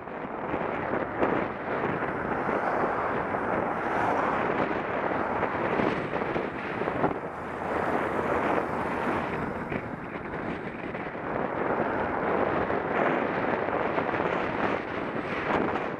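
Wind buffeting a Contour action camera's microphone while riding a bicycle: a steady, rough rushing that swells and dips, with a few short knocks.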